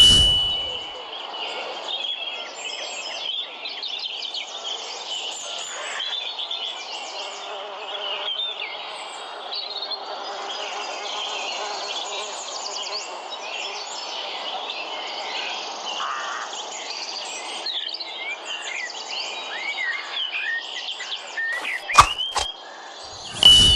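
Forest ambience: birds chirping and singing over a steady background hiss, with one sharp knock near the end.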